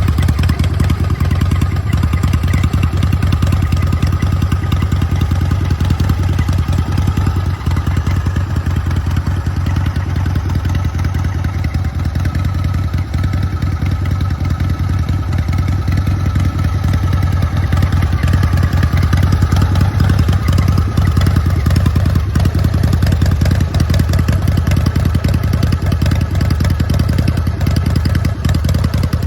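Harley-Davidson Shovelhead V-twin engine running steadily through its exhaust at an even, idle-like speed, with a loud, low, pulsing exhaust note.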